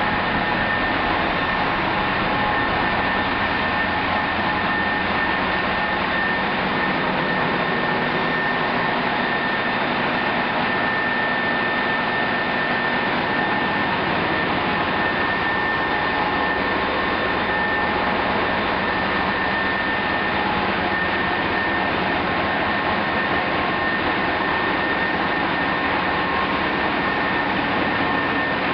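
Engine-room machinery running steadily: a loud, constant mechanical din with a steady high whine running through it.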